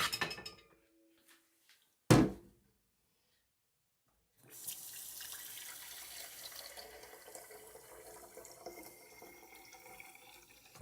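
A sharp knock about two seconds in, then, from about four and a half seconds, tap water running steadily into a Muji kettle as it fills.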